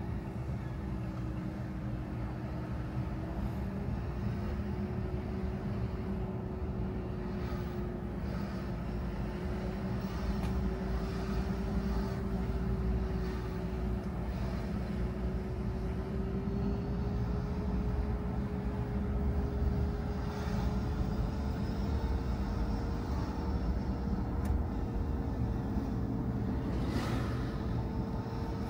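A car being driven: steady engine and road rumble, with a whine that slowly rises in pitch as it goes, and a brief noise near the end.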